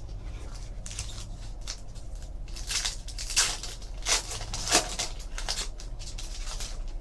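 Trading cards and their pack wrappers being handled: a run of short, sharp rustles and crinkles, busiest in the middle, over a low room hum.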